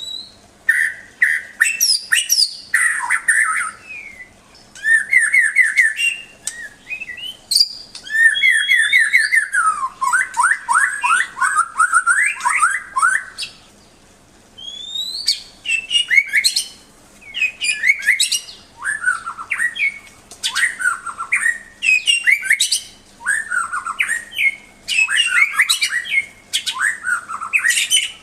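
White-rumped shama (murai batu) singing a varied song of clear whistles, rapid repeated trill notes and rising and falling glides, in phrases a few seconds long with short pauses between them.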